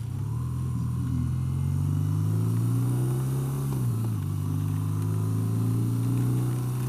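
BMW R12's boxer-twin engine running under way, its pitch climbing slowly as the bike accelerates. About four seconds in the pitch dips sharply, then the engine runs steady.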